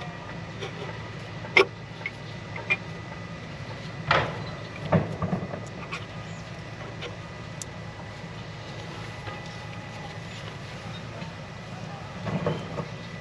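Scattered light metallic clicks and knocks of a diesel fuel injector and tools being handled as the injector is fitted into its bore in the cylinder head, over a steady low hum.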